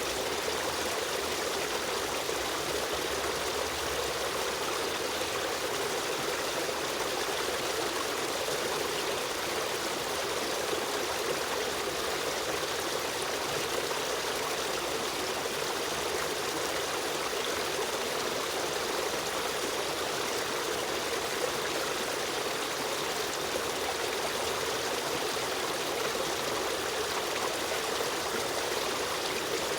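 A shallow stream running steadily, water rushing and trickling over rocks with no change in flow.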